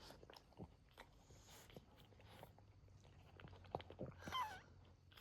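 Faint wet mouth clicks and smacks from newborn Boston Terrier puppies and their mother. About four seconds in, a puppy gives a short high squeak that bends in pitch.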